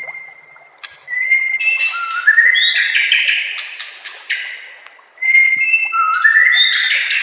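White-rumped shama (murai batu) singing. Two song phrases each open with a held whistle and climb in steps into a loud run of quick, rich notes; the second phrase starts about five seconds in.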